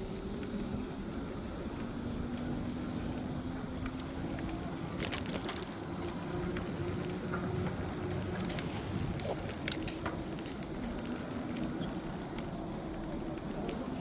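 E-bike ride: wind on the microphone and tyre rumble, with a faint steady hum and a few sharp clicks about midway.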